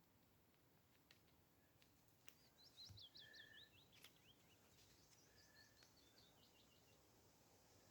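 Faint songbird song: two phrases of quick, high notes, each falling in pitch, starting about two and a half and five and a half seconds in, with a few faint clicks between them.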